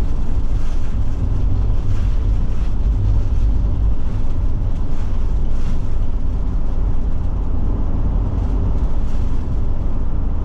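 Steady low rumble of road and engine noise inside the cab of a Forest River Forester motorhome as it drives along.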